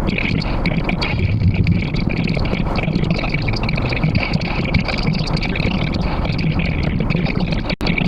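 Fast-forwarded road noise from a car dashcam: a dense, steady rumble and hiss, choppy throughout, with a brief dropout near the end.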